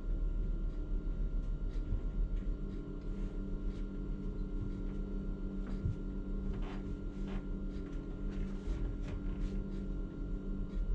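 Truck crane's engine running steadily with a low, even hum, with a few faint knocks.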